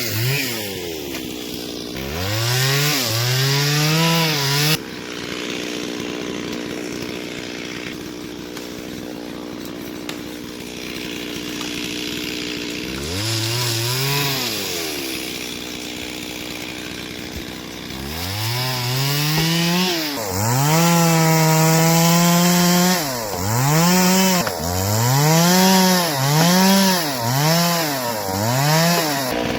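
Two-stroke chainsaw revving up and dropping back to idle again and again while cutting firewood. It is held at full speed for a few seconds about twenty seconds in, then revved in quick short bursts near the end.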